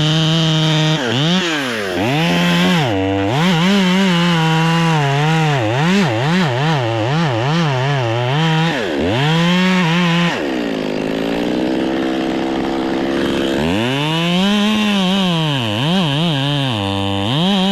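Chainsaw engine running with the throttle worked up and down, its pitch rising and falling every second or so. About ten seconds in the pitch drops low and holds for about three seconds before climbing back.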